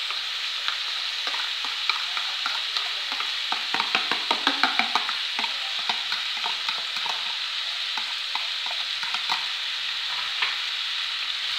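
Ackee and salt pork strips sizzling steadily in a cast-iron skillet as chopped bell pepper, onion and scallion go in, with clicks and scrapes of stirring on top. The stirring is busiest and loudest about four to five seconds in.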